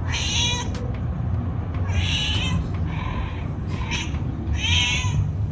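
Recorded domestic cat meowing, played back: about five short meows, roughly one a second, over a steady low hum.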